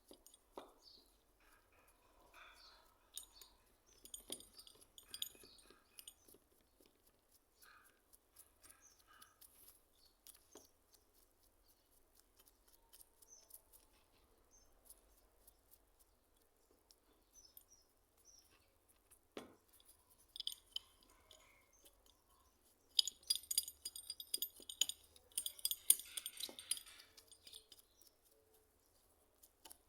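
Light clinks and taps of small hard parts being handled and set down, with a few seconds of scratchy rubbing about three quarters of the way through.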